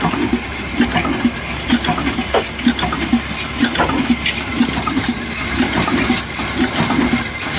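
Old slow-speed diesel engine running steadily, with a regular low beat about three times a second over a continuous rushing noise.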